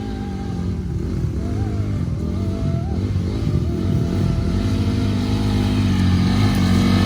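Dirt bike engine revving up and down, getting gradually louder.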